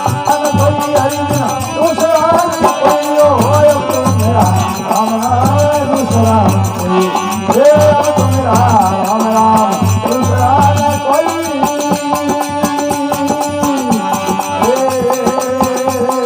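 Instrumental interlude of a Rajasthani bhajan: an ornamented, gliding melody line over a steady drum rhythm, with manjira hand cymbals keeping time.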